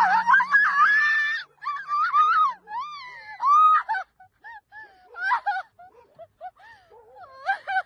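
A series of short, pitched animal calls that rise and fall, several overlapping, thickest in the first few seconds and again near the end.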